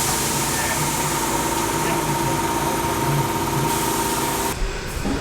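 A racing sedan's engine running steadily, with a thin steady whine over it; the sound breaks off abruptly near the end.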